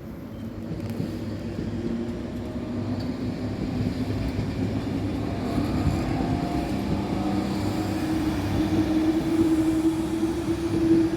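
Train approaching, its steady drone and rumble growing louder, with the pitch of the drone rising slightly.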